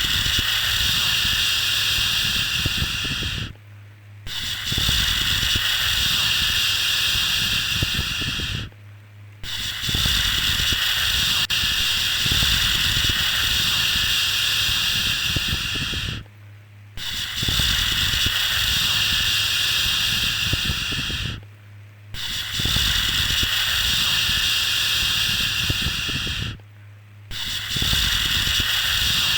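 Long, drawn-out "shhh" shushing sounds for soothing a baby to sleep, each held for several seconds with a short pause between, about six in a row.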